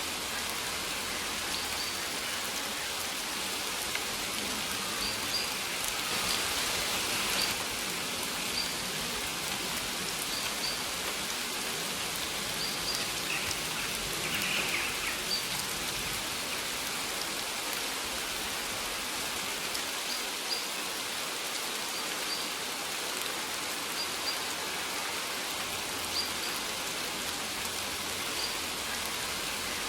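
Steady rain falling, with a bird giving short, high chirps every second or two.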